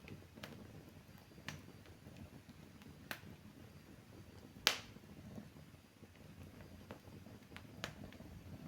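Wood fire crackling: scattered sharp pops at irregular intervals, the loudest a little under five seconds in, over a faint low rumble.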